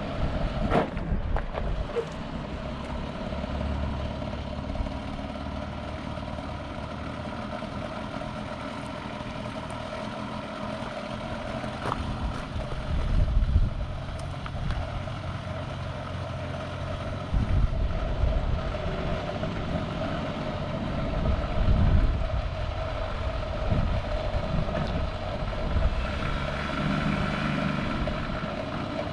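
A motor vehicle running with a steady engine drone over a low rumble, rising and falling slightly in level a few times.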